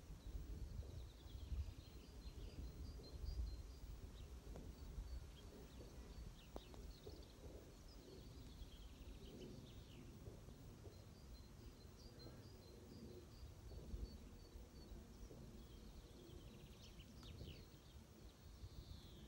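Faint outdoor ambience: small birds chirping and singing, with runs of quick repeated chirps and short falling notes, over a low steady rumble.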